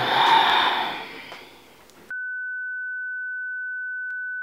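A loud burst of rushing noise that fades over the first second and a half, then, about two seconds in, a steady high-pitched electronic test tone begins: a single unbroken beep at one pitch, the tone from a video-editing timeline leader.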